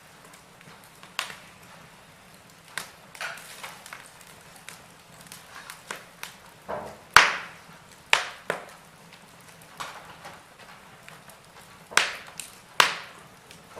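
Wood fire in a fireplace crackling, with irregular sharp pops; the loudest comes about seven seconds in, with two more strong pops near the end.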